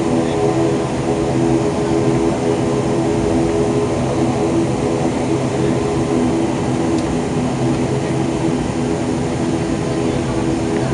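Steady drone of an ATR 72-500's turboprop engines and propellers, heard inside the cabin, with a constant hum of several steady tones over a rushing noise.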